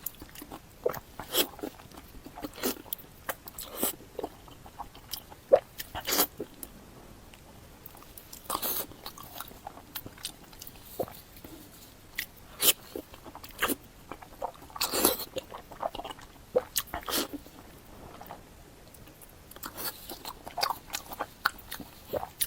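A person eating close to the microphone: irregular bites and chewing with sharp mouth clicks and smacks, a few longer louder chews around the middle.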